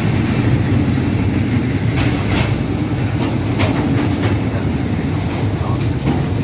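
Freight train of container flat wagons and tank wagons rolling past, a steady low rumble with wheels clacking over rail joints every second or so.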